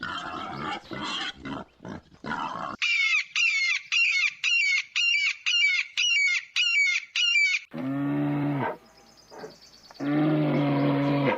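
A run of animal calls: a pig grunting in short bursts, then a bird chirping about ten times at roughly two chirps a second, then a cow mooing twice.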